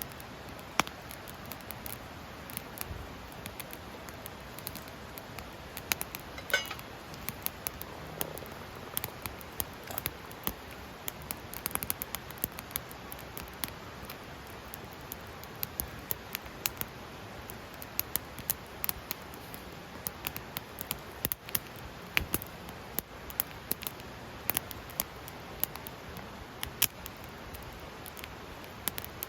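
Wood fire crackling in a Picogrill fire pit: irregular sharp pops and snaps over a faint steady hiss.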